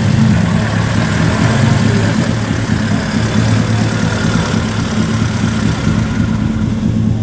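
A vintage engine idling steadily close by, a constant low running note with no change in speed.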